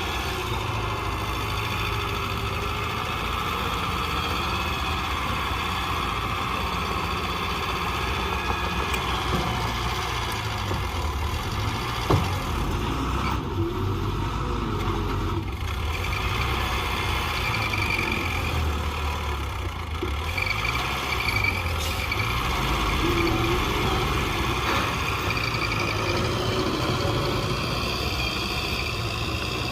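Diesel engine of a small crawler bulldozer running steadily, with one sharp knock about twelve seconds in.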